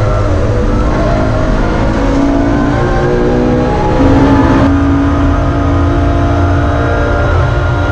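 BMW E46 M3's straight-six engine running hard under load, heard from inside the stripped cabin, its pitch rising over the first few seconds. A brief louder moment comes about four seconds in, then the engine note holds steadier.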